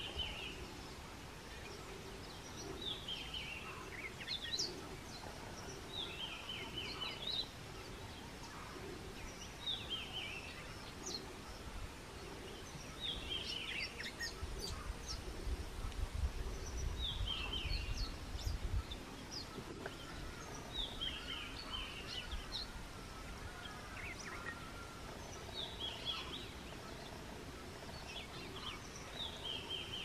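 A songbird repeats a short phrase of high notes that falls in pitch, about every three to four seconds, over a low background rumble that swells in the middle.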